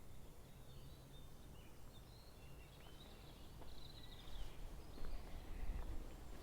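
Faint outdoor ambience with a low rumble and a few short, distant bird chirps, and some soft knocks in the second half.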